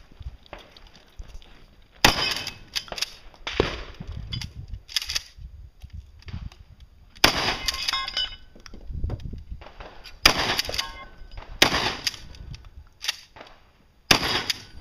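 AR-15 rifle firing single shots and short strings every second or two. Metallic rings from hits on steel targets follow some of the shots.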